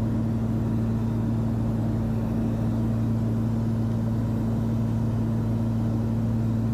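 The Cessna 340's twin turbocharged six-cylinder piston engines and propellers droning steadily in cruise, one even hum with no change in pitch.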